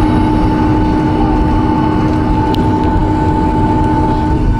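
Steady cabin noise inside a Boeing 757-200 rolling to the gate after landing: a constant rumble with a steady two-note hum from the engines and air system, and a faint click about two and a half seconds in.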